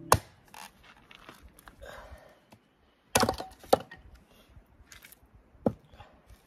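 Firewood being chopped: four sharp wooden knocks, spaced unevenly, with a pair close together in the middle.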